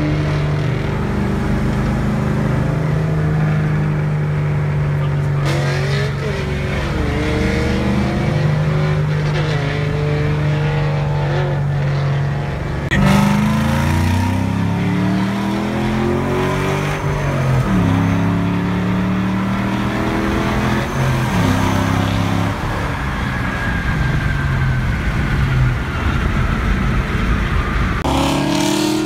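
Car engine heard from inside the cabin, running steadily and then accelerating through several gears from about five seconds in, its pitch climbing and dropping back at each shift. A thin whine falls slowly away near the end.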